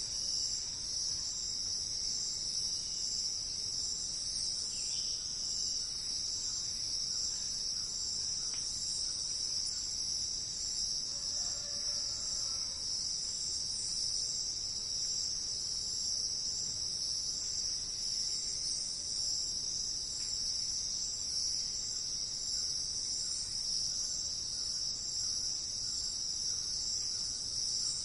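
A steady, high-pitched insect chorus, crickets or similar, running without a break. A faint bird call comes in about twelve seconds in.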